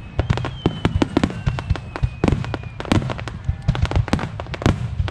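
Fireworks display in a dense barrage: many rapid sharp cracks and bangs over a continuous low booming rumble, with a thin falling whistle running underneath.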